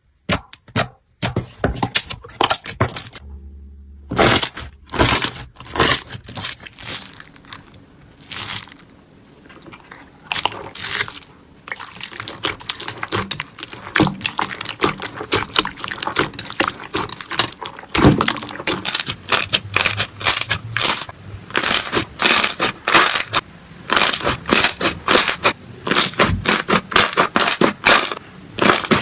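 Slime being squeezed and pressed by hand: a run of short crackling, crunching pops and clicks, with a brief pause a few seconds in, growing denser and more continuous through the second half.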